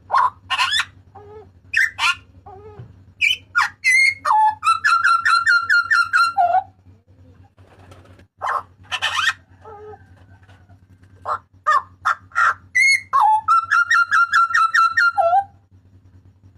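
Butcherbird (burung jagal papua) calling loudly: sharp whistled notes and glides, and twice a fast run of repeated ringing notes lasting about two seconds. A quieter gap falls in the middle, and a faint steady low hum runs underneath.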